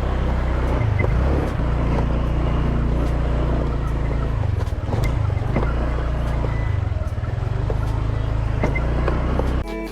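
Motor scooter being ridden on a rough dirt road: low engine and wind rumble with scattered knocks and rattles from the bumps. Music comes in right at the end.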